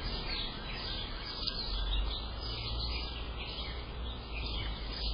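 Wild birds chirping repeatedly outdoors, over a steady low rumble.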